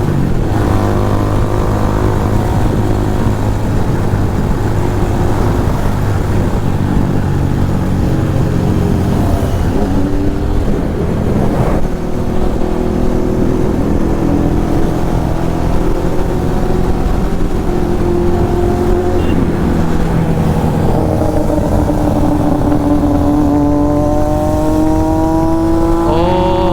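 Motorcycle engine running steadily under way, its pitch shifting up and down, then climbing over the last few seconds as it accelerates.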